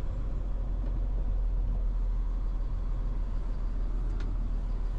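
Tow truck engine running steadily, a low, even rumble.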